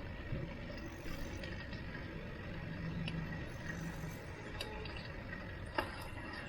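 Street traffic heard from a moving bicycle: a steady low rush of road noise, with a passing vehicle's engine hum in the middle and a few light clicks near the end.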